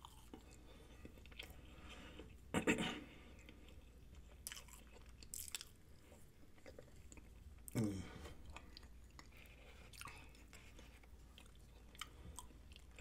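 Close-miked chewing and lip-smacking of a person eating mashed potatoes: faint, moist mouth sounds and small clicks, with two brief louder mouth sounds about two and a half seconds in and again about eight seconds in.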